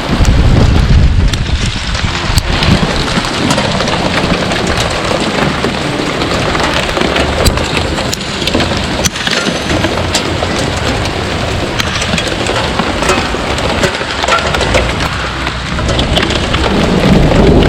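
A heavy downpour with hail, a dense hiss of rain peppered with the sharp ticks of hailstones striking. A strong low rumble runs beneath it, wind buffeting the microphone.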